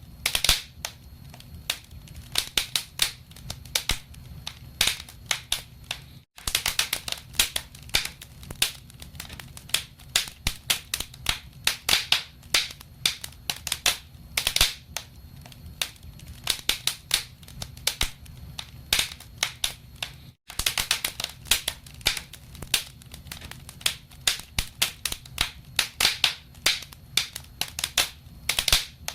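Wood fire in a fireplace crackling, with many irregular sharp pops and snaps over a low steady rumble. The sound drops out for an instant twice, about 6 and 20 seconds in.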